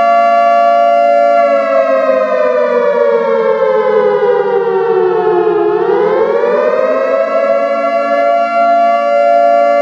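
Civil-defence-style warning siren sounding a loud, steady pitched wail. Its pitch slides slowly down over about four seconds, then climbs back quickly to the original pitch about six seconds in and holds there.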